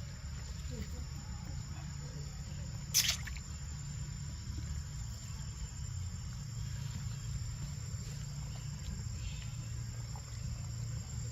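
Steady high-pitched insect drone over a low rumble, with one sharp click about three seconds in.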